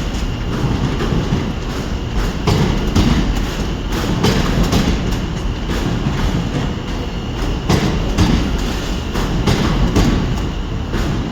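A train moving along the track, a low rumble with irregular clicks and clatters of wheels over rail joints and points.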